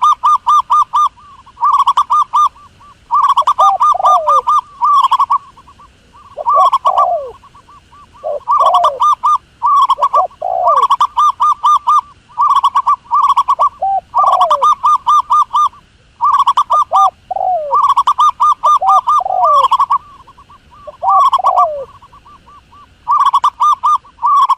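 Zebra dove calling: repeated runs of quick staccato cooing notes, each run lasting about a second, with short downward-sliding notes between the runs.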